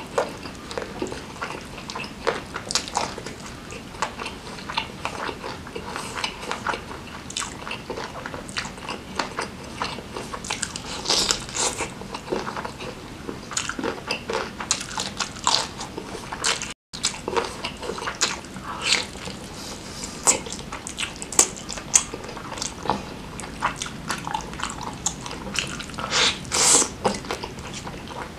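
Close-miked eating of grilled chicken (ayam bakar) dipped in chilli sambal: continuous chewing and biting, with many short wet mouth clicks. The sound drops out for an instant just past halfway.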